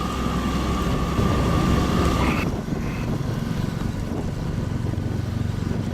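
Boat motor running steadily at low revs, with a steady high whine over it that cuts off about two and a half seconds in.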